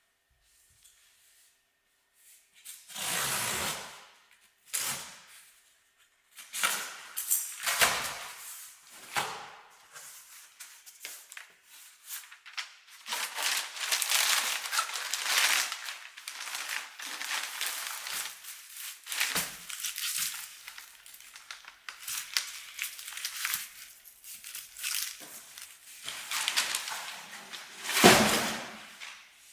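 Paper packaging rustling and crumpling as a parcel is unwrapped by hand, in irregular bursts with the loudest near the end.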